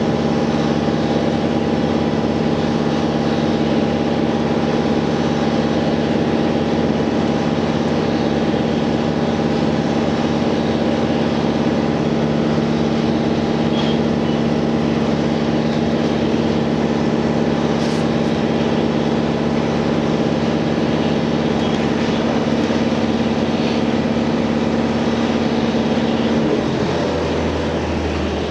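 Diesel engine of a JR Hokkaido H100 DECMO diesel-electric railcar running at a steady speed, heard from inside the car, with a steady hum of several tones. About two seconds before the end the engine note drops away, leaving the rolling sound of the train.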